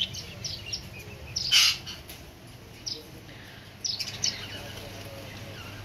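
Small caged birds chirping: scattered short, high chirps, with one louder call about a second and a half in.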